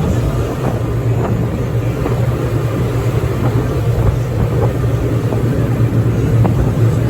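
Four Mercury 450 hp outboard motors running steadily under way, a constant low drone with rushing noise over it.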